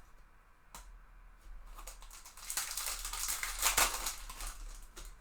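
Trading cards and their packaging being handled: a few light clicks, then about two seconds of louder rustling in the middle.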